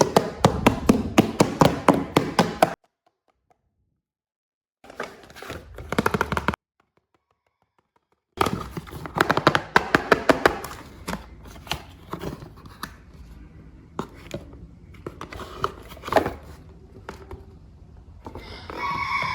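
Toy packaging and plastic action figures being handled and opened: quick runs of clicks, taps and knocks, in short bursts broken by sudden silences. Near the end there is a brief pitched sound with several tones.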